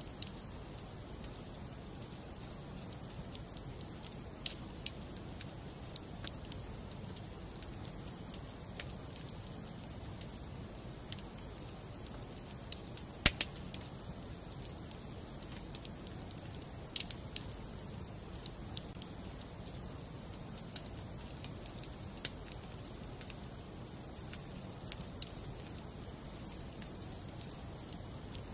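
Wood fire burning in a fireplace, with a steady low rush and irregular sharp crackles and pops from the burning logs; one pop about halfway through is much louder than the rest.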